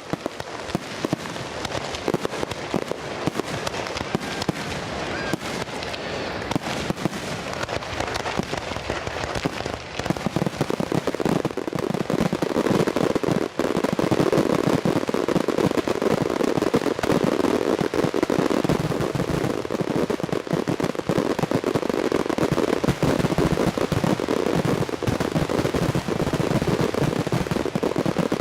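Fireworks going off in a dense, continuous barrage of crackling pops and bangs, growing louder about twelve seconds in.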